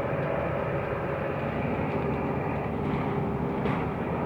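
Mercedes-Benz Türk O345 Conecto LF city bus heard from inside the passenger cabin while driving: a steady mix of engine and road noise.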